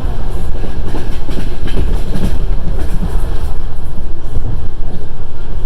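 Passenger train running on the rails, heard from inside the carriage: a steady low rumble of the wheels with clacks as they pass over rail joints.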